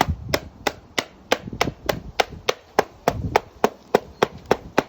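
A hammer tapping steadily and repeatedly, about three and a half taps a second, on a paper towel laid over a flower on a plastic-covered cutting board, pounding the flower's colour into the towel.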